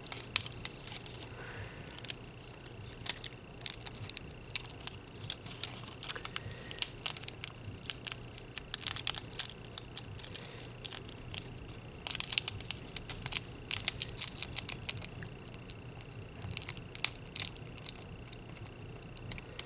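Nail-art transfer foil being pressed and rubbed onto a nail: irregular clusters of crinkling and scratching every few seconds, over a faint steady high whine and low hum.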